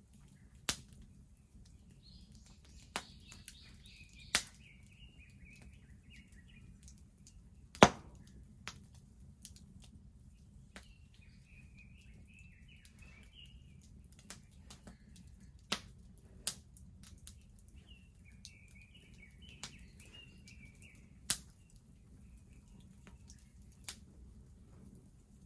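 Wood fire crackling with scattered sharp pops, the loudest a little under 8 seconds in. A small bird sings three short twittering phrases in the background.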